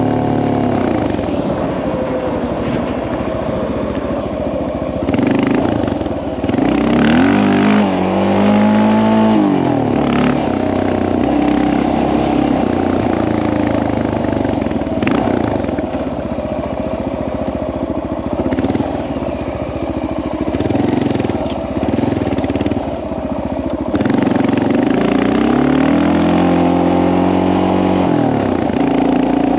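Honda XR650L's single-cylinder four-stroke engine running under way, its pitch rising and falling as the throttle is opened and closed twice. A few short knocks come through along the way.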